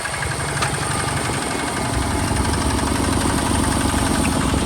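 Hinota HG Gold 155 DI tractor's direct-injection diesel engine running with a steady, rapid chug. It picks up slightly about two seconds in.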